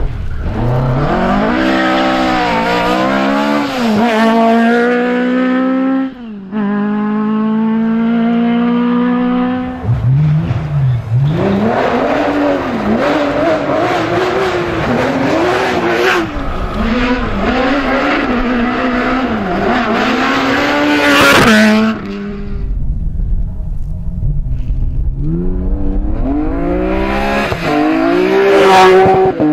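Rally cars at full throttle, several in turn: the engines rise in pitch through the gears and drop back at each quick gear change, with a few brief loud noise bursts.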